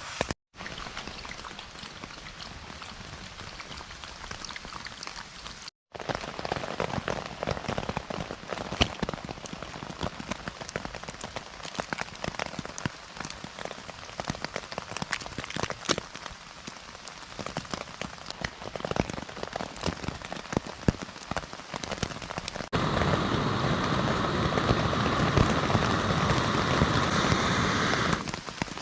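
Steady rain falling on a tent, many individual drops ticking on the fabric. It grows louder and denser for about five seconds near the end, and drops out briefly twice.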